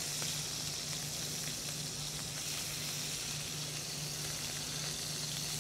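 Scallops searing in hot canola oil in a stainless skillet, sizzling steadily as they are turned over with tongs, over a steady low hum.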